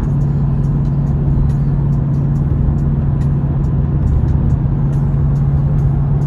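Ford Mustang GT's 5.0-litre V8 with Ford Performance exhaust droning at a steady highway cruise, heard from inside the cabin, over a low road and tyre rumble.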